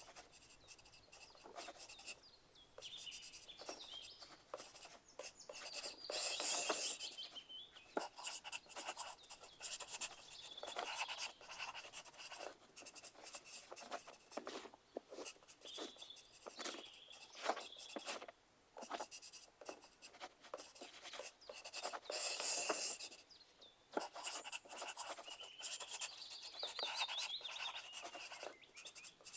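Pencil writing on paper: a continuous run of short scratching strokes, with louder, denser scribbling about six seconds in and again about twenty-two seconds in.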